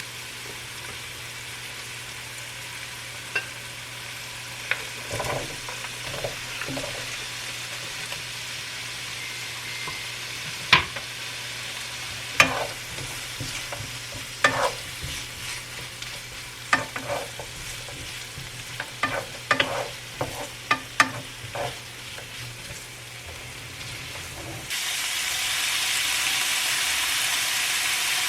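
Food frying in a pan, with a utensil scraping and clicking against the pan many times. Near the end the sizzle suddenly gets louder.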